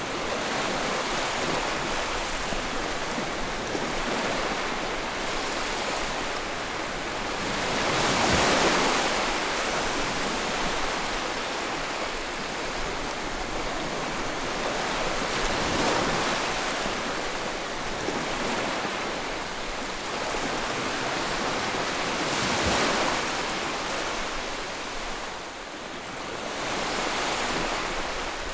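Sea waves washing onto the shore: a continuous hiss of surf that swells three times as waves break, about seven seconds apart.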